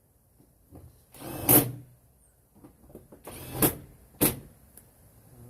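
Cordless battery power tool run in two short bursts of about half a second, around one and a half and three and a half seconds in, followed by a sharp click a little after four seconds.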